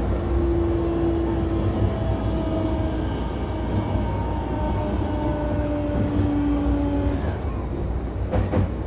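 Running sound of a JR East E233-3000 series electric train: a steady rumble of wheels on rail, with a faint motor hum that steps slowly down in pitch. There is a brief clatter near the end.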